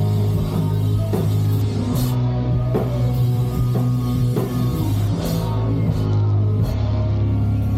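Emo rock band playing live: electric guitars and bass holding long low notes, with drum and cymbal hits every second or so and no singing.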